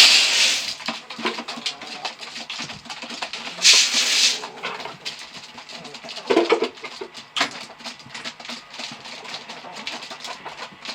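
Chickens clucking amid the noises of farm chores: two loud scraping, rustling bursts, one at the start and one about four seconds in, and scattered clicks and knocks.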